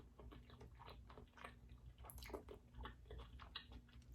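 Faint, close-miked chewing: soft wet mouth clicks and smacks of someone eating sauce-coated seafood.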